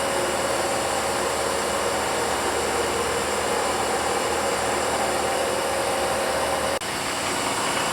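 ProtoTrak CNC mill spindle running steadily as a high-speed steel roughing end mill spirals through a bore in aluminum. There is a brief dip about seven seconds in, and a steady tone in the sound is gone after it.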